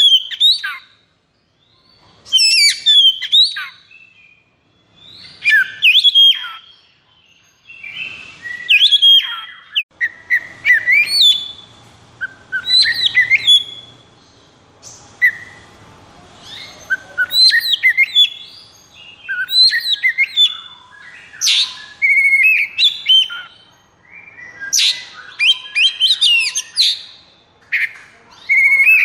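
Oriental magpie-robin (kacer) singing loud, rapid phrases of sweeping, warbling whistles and chirps, one after another with short pauses between them.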